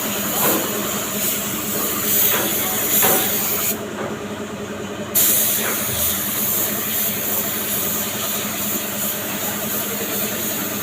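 Compressed-air paint spray gun hissing steadily. It cuts off for about a second near the middle, then starts again abruptly.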